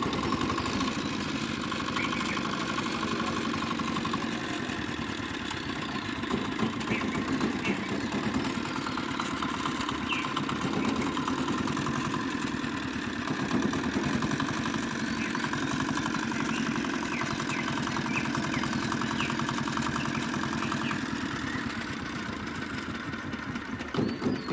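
Small single-cylinder R175A diesel engine running steadily, a fast even chugging of firing pulses.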